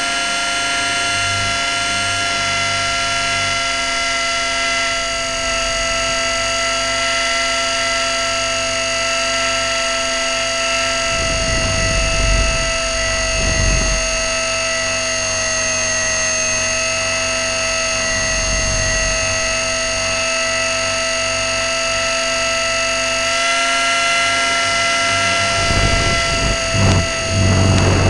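E-flite Blade 400 RC helicopter's electric motor and drive gears, heard from the onboard camera, giving a steady high-pitched whine. Low wind rumble on the microphone comes and goes in gusts, several times.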